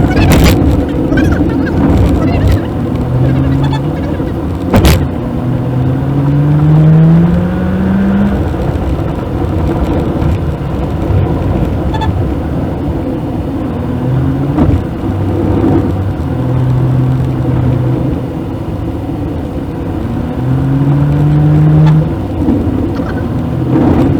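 Maruti Suzuki WagonR's petrol engine and road noise heard inside the car while driving. The engine note climbs in pitch as the car accelerates several times, with steadier stretches in between, and there are two sharp knocks, one near the start and one about five seconds in.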